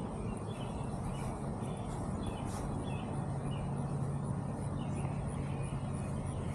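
Yard ambience: a distant lawn mower engine drones steadily, its hum growing stronger about three seconds in, with faint bird chirps over it.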